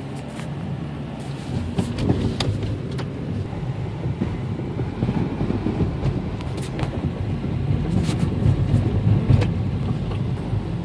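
Downtown street traffic: a heavy vehicle's engine running, growing louder toward the end, with scattered sharp clicks and knocks.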